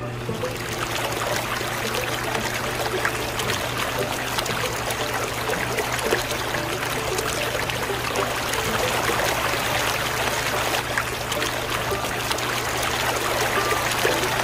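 Small DC motor water pump on a miniature model switched on and running with a steady low hum, its water gushing out of the pipe and splashing onto sand.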